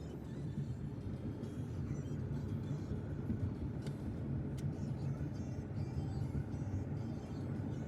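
Steady low rumble of a car on the move, heard from inside the cabin, with music playing faintly over it. Two short clicks a little past the middle.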